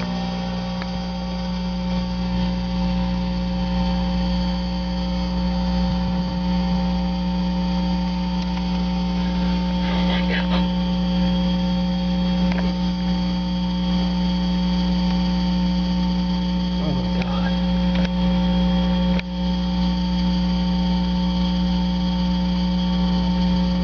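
A loud, steady electrical-sounding hum made of several constant tones, with faint, indistinct voices under it now and then.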